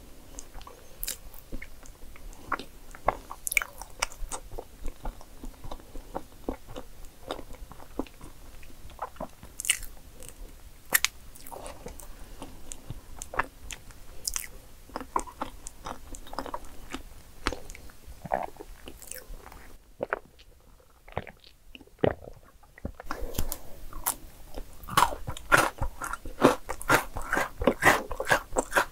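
Close-up eating sounds: chewing chocolate cake crumbs and chocolate shavings scooped up with a wooden spoon, with many small sharp clicks. The chewing briefly goes quiet, then turns dense and crunchy near the end.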